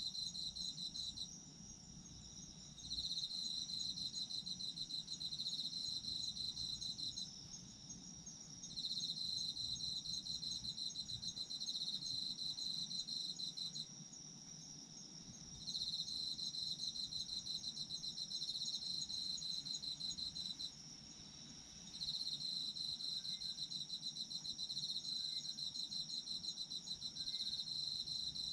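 Autumn crickets singing: one sings in pulsing trills of about four to six seconds with short pauses between them, over a steady, higher, unbroken trill from others.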